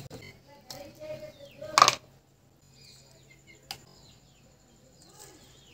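Birds chirping faintly, with a sharp clatter about two seconds in and a small click a couple of seconds later.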